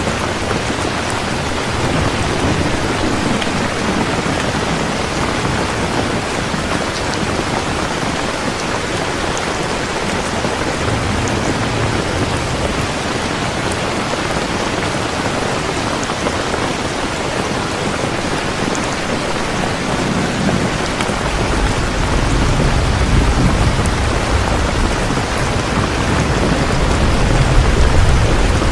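Heavy, steady rain with rolling thunder. Low rumbles come and go, and a stronger, longer rumble builds about two-thirds of the way through and carries on to the end.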